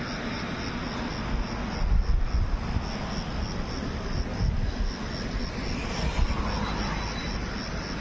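A steady rumble of a train passing on the tracks below, with wind buffeting the microphone in low gusts.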